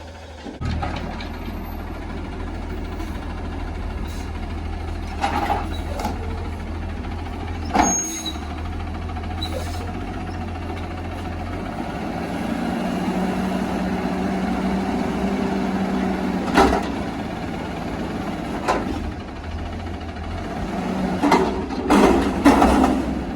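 Front-loader garbage truck running, its engine note growing louder and fuller about halfway through, with sharp metallic bangs and clanks a few times and a cluster of them near the end.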